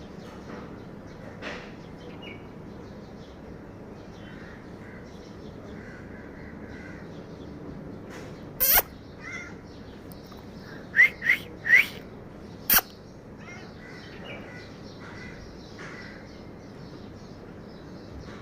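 Five short, loud animal calls, three of them close together in the middle, over faint bird chirping in the background.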